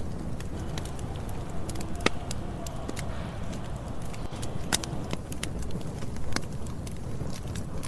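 Wood campfire burning: a steady low rush of flames with sharp pops and crackles from the burning wood, the loudest about two seconds and about five seconds in.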